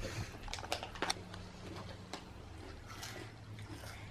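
Children chewing crunchy snack rings: a few faint crisp crunches, mostly in the first half, over a steady low hum.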